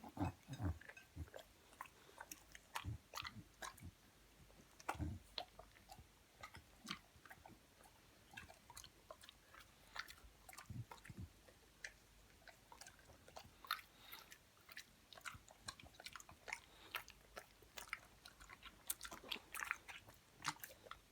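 An Olde English Bulldog chewing and biting a plum, heard as faint, irregular short chewing clicks and smacks.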